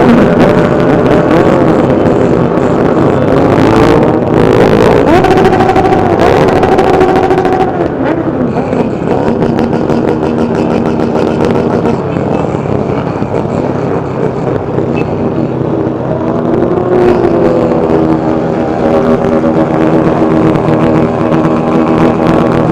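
A large group of motorcycle engines running together, loud and continuous, with engines revving up and down about four to seven seconds in and again around seventeen seconds in.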